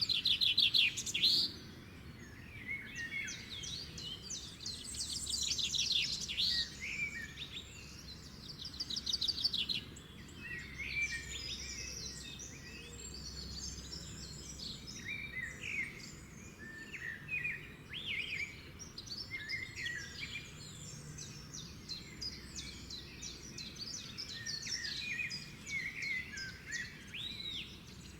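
Several songbirds singing and calling together: overlapping chirps, whistles and rapid trills, with the loudest trills near the start and twice more in the first ten seconds.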